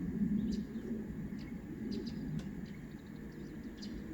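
Small birds chirping in short, high, scattered notes over a steady low background hum.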